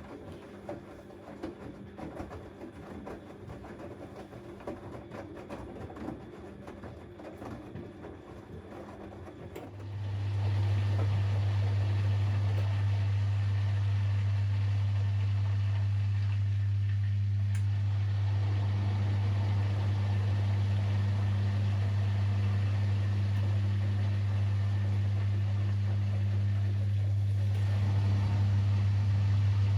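Siemens Extraklasse XLS 140 A washing machine running its wash. About ten seconds in, the drain pump switches on with a loud, steady mains hum that runs on as the machine pumps out its water.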